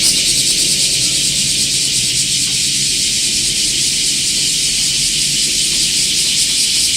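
Cicada singing: a loud, steady, high-pitched buzzing drone.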